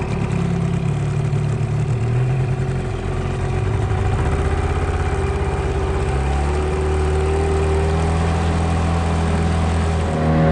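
Outboard motor running steadily while towing a rider on a board, its engine note shifting a couple of times, over a hiss of wind and water.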